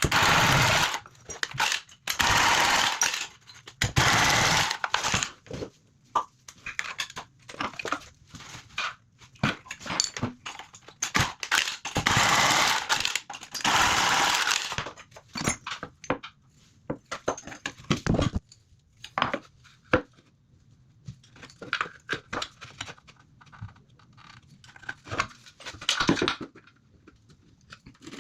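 Plumbing work on a basin's pipework: several long bursts of harsh tool noise, each one to three seconds, with knocks and clicks from pipes and fittings being handled between them.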